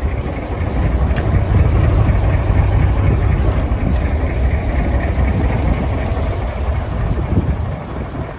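Mitsubishi Fuso Great dump truck's 8DC11 V8 diesel engine running with a steady low rumble, a little louder in the first half.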